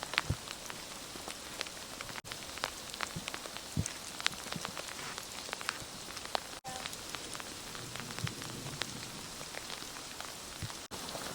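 Sleet pattering on dry leaves: a steady hiss with many small, irregular ticks of ice pellets landing.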